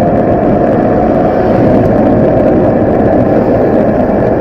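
Loud, steady wind rush over the microphone of a camera on a moving bicycle, with a faint steady whine underneath.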